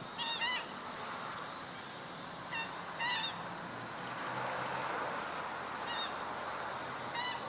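Black-winged stilt calling: short calls, singly or in quick runs of two or three, five times over, the loudest near the start and about three seconds in.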